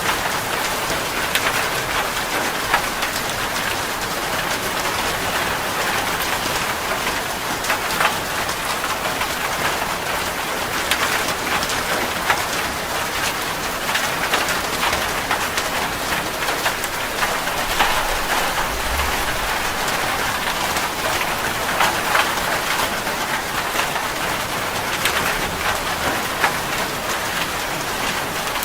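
Steady rain falling, an even hiss dotted with frequent sharper drop ticks.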